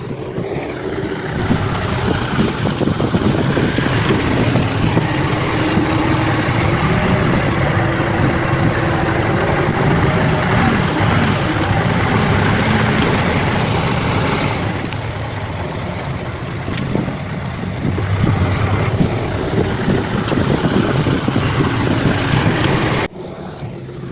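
Bulldozer diesel engine running under steady work, getting louder about a second and a half in, easing somewhat past the middle and picking up again. The sound drops away suddenly near the end.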